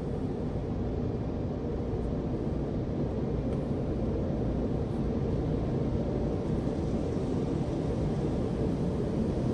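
Tunnel car wash machinery running: a steady low rumble with a faint hiss above it.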